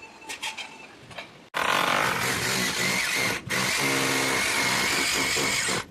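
Electric power drill running under load, starting abruptly about a second and a half in after a few light clicks, with a steady motor whine. It cuts out briefly around halfway and then runs on.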